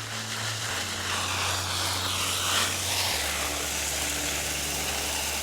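Water spraying from a hose onto dry ground and plants, a steady hiss that swells slightly about a second in, over background music with slow low notes.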